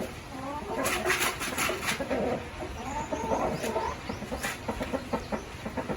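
Parrot-beak fantail (Kilimookku Visirival) rooster giving low, repeated clucking calls, his nesting call that draws hens to a spot to lay. A run of sharp clicks comes about a second in, and another near the end.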